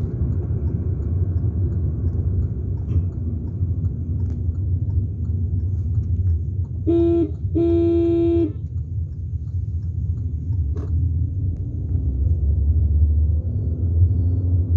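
Steady low rumble of a motor vehicle on the move. About seven seconds in, a vehicle horn sounds twice: a short toot, then a longer honk of about a second.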